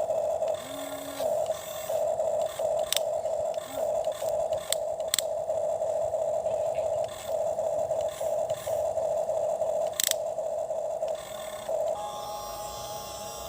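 Small electric motor of a toy excavator whining steadily, cutting out and starting again every second or so, with a few sharp clicks from the arm and bucket. Near the end the whine changes to a slightly higher, steadier pitch.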